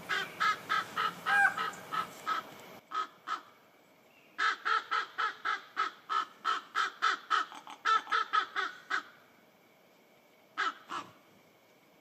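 A bird calling in runs of short repeated notes, about three or four a second, broken by pauses: one run at the start, a longer run from about four to nine seconds in, and a final pair near the end.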